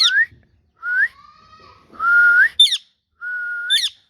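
Four whistled notes, each ending in a rising glide, mixed with short, sharp, high chirps from a green ringneck parrot near the start, near the middle and near the end.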